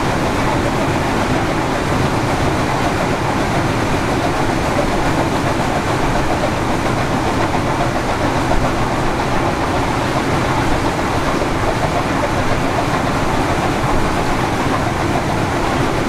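Steam-hauled passenger train running along the track, heard from on board: a steady rumble and rattle of wheels on rails that holds at one level throughout.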